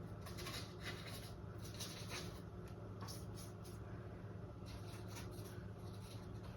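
Paintbrush stroking and dabbing acrylic paint onto a stretched canvas: faint, irregular scratchy strokes, over a low steady hum.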